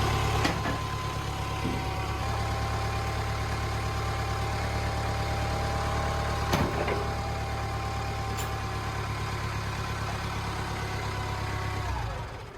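Clark forklift's Perkins diesel engine running steadily, with a steady whine over it that drops in pitch near the end as it winds down. There is a single knock about halfway through.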